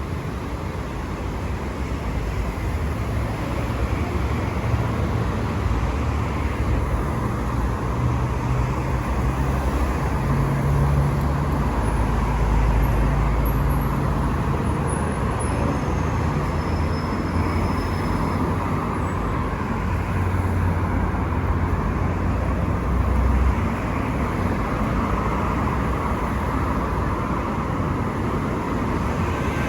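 City street traffic: a steady hum of passing cars, with a deep engine rumble that builds over the first several seconds and drops away about three-quarters of the way through.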